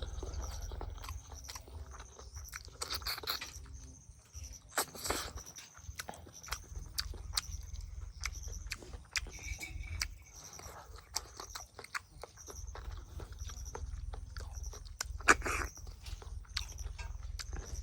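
Eating sounds: chewing and biting, with many short, sharp clicks and taps scattered irregularly throughout.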